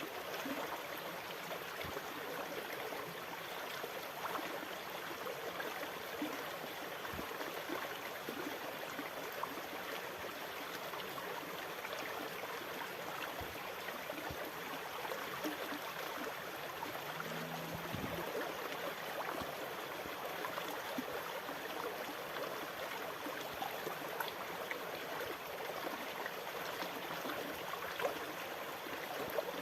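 Steady rushing, gurgling water of the sea, even throughout with fine crackling and small splashes rather than distinct breaking waves.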